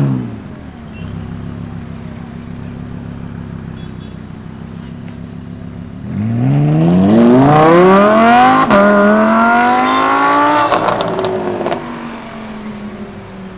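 Lamborghini Huracan LP610-4's V10 with a Lamborghini sports exhaust: a short rev at the start, then idling steadily. About six seconds in, it accelerates hard away with the pitch climbing steeply, drops sharply once at an upshift, climbs again, then falls and fades as the car recedes.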